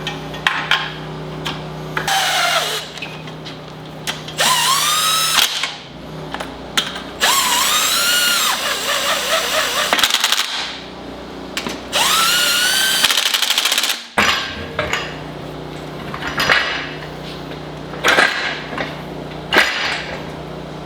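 A handheld power tool spinning up in three runs of a few seconds each, its whine rising in pitch and then holding. Shorter bursts and sharp clicks of tool work follow, over a steady low hum.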